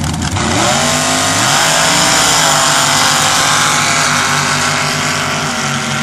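Sand drag race trucks' engines launching at full throttle: the pitch climbs steeply over the first second or so, then holds high and loud for the rest of the run.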